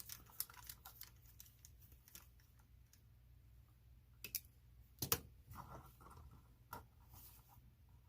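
Scattered light clicks and taps of small parts being handled while the wheels come off a 1/24 scale RC crawler, with one sharper click about five seconds in.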